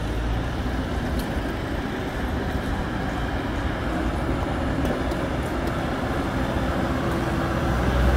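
Diesel engine of a Hidromek 102S backhoe loader running steadily, getting louder near the end.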